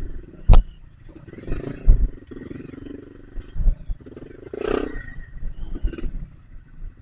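Dirt bike's single-cylinder engine revving up and down unevenly on a muddy trail. A sharp knock comes about half a second in, with low thumps from the bike working over the ground.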